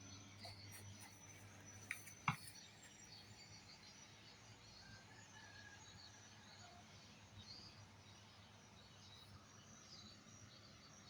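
Near silence: faint high chirping over a low steady hum, with two short sharp clicks about two seconds in.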